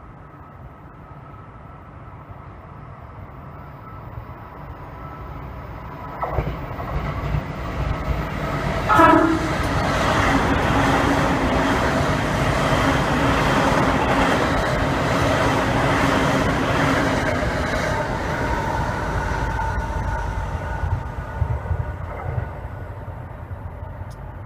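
Electric commuter train approaching and running past close by. It sounds a short horn blast about nine seconds in, then the wheels and traction motors give a steady loud rush with a whine as the cars go by, which fades near the end.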